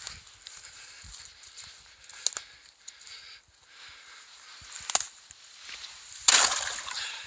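A couple of sharp knocks, then about six seconds in a loud crunching splash that fades over about a second, as stones are used on the swamp's ice and water.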